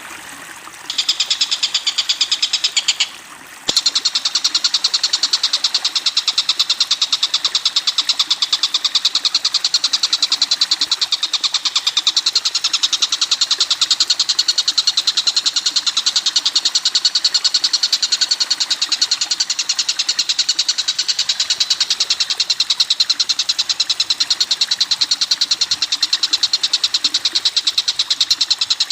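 Recorded bird calls: a high, rapid chatter of notes repeated evenly several times a second. The chatter carries on almost without a break, with one short pause about three seconds in.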